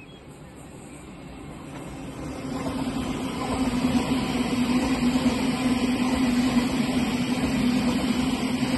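Electric multiple-unit passenger train approaching and passing along the platform, growing louder over the first three seconds, then a steady train running noise with a low hum and a hiss from the wheels.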